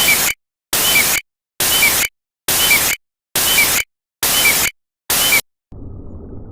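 A burst of loud static-like hiss repeated about once a second, seven times, each burst about half a second long and cut off into dead silence. Near the end a fainter, muffled sound starts.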